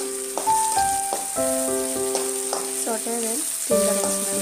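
Crushed shallots, garlic and red chillies sizzling in hot coconut oil in a metal kadai, stirred with a metal spatula that clicks now and then against the pan. Background music of sustained keyboard-like notes, changing about every half second, plays over the sizzle and is the loudest sound.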